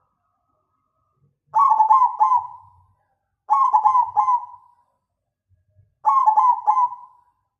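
Zebra dove (perkutut) of the black cemani strain cooing: three phrases, each of three quick hooked notes running into a longer fading tone, one about every two and a half seconds.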